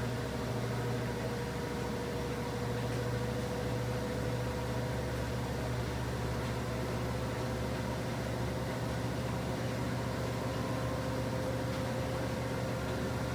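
Washing machine running steadily: a low motor hum with a thin whine that creeps slightly upward in pitch.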